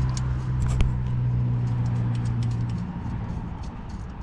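A motor vehicle's engine running with a steady low hum that fades away about three seconds in, with small clicks and taps of hand-work on the trailer wiring over it.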